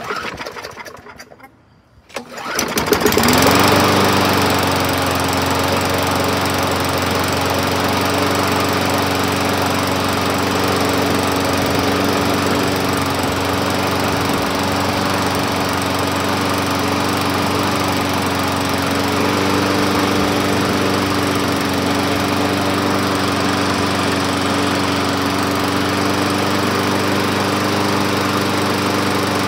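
Small gas engine of a 2011 Yard Machines push mower pull-started on its first try after a carburetor rebuild: a brief recoil-rope rattle, then about two seconds in the engine catches, revs up and settles into steady running.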